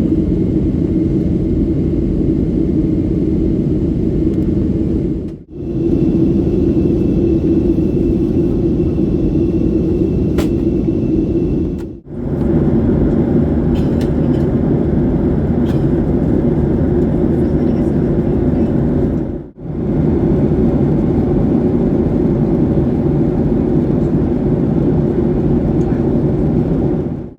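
Steady, loud cabin noise of a Boeing 737 jet airliner in flight, a deep even roar of engines and airflow. It comes in short stretches, briefly dipping to quiet three times where they join, with a few faint clicks over it.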